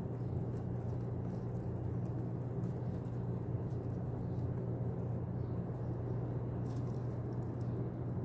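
Steady low hum, even in level throughout, with a few faint clicks over it.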